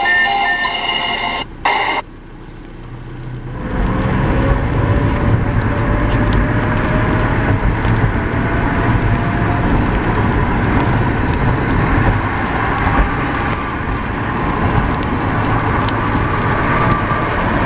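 A car driving in the rain: steady tyre and rain noise with a low road rumble, fading in after a short stretch of music cuts off about two seconds in. A faint engine note rises a few seconds later.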